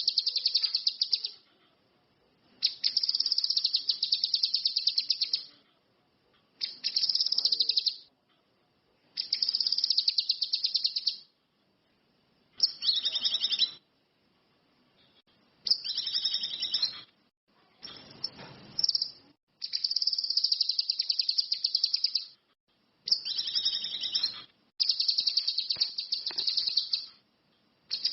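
Cucak kinoi (ranti mas) songbird singing: a fast, high, buzzing trill repeated about nine times, each run one to three seconds long, with short pauses between.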